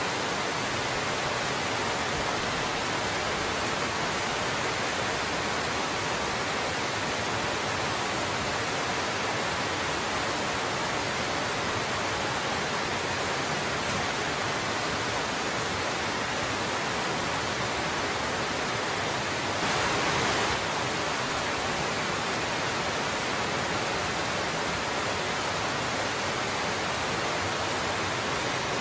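Waterfall among icicles, water rushing steadily with an even, unbroken sound, briefly a little louder about twenty seconds in.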